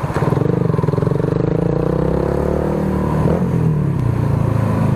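Motorcycle with an aftermarket muffler and silencer running under way. Its pitch climbs, dips briefly about three seconds in, then climbs again.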